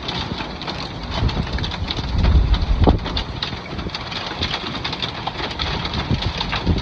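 Rain and hail falling, many sharp taps over a steady hiss, with gusts of wind rumbling on the microphone.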